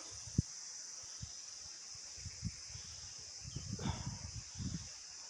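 A steady, high-pitched insect chorus drones without a break. Through the middle of it come irregular soft thuds and rustles, like footsteps on a forest trail.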